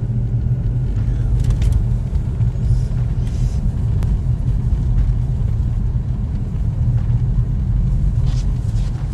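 Steady low engine and road rumble heard from inside a moving vehicle driving through snow.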